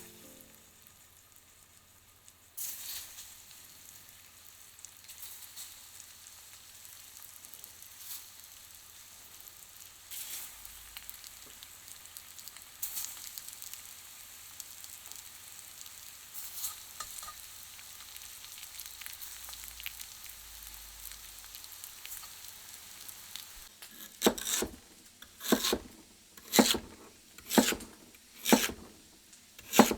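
Food sizzling and crackling as it fries in a pan. About 24 seconds in, a run of loud rhythmic strokes follows, about one a second.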